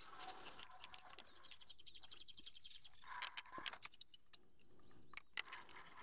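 Faint outdoor birdsong: scattered high chirps and a rapid high trill about two seconds in, followed by a quick flurry of sharp clicks and taps.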